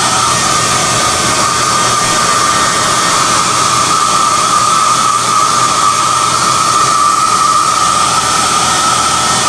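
SOUNATE high-airflow hair dryer running steadily: a loud rush of air with a high whine that wavers slightly in pitch.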